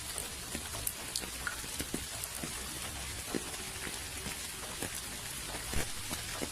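Steady rain hiss with scattered individual drops ticking on a surface, one louder drop hit shortly before the end.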